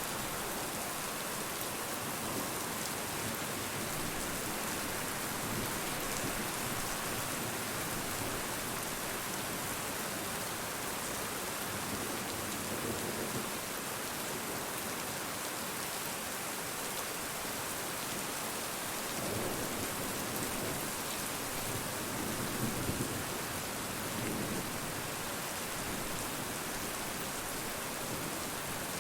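Steady, even rain falling and pattering on surfaces, with a few faint low swells past the middle.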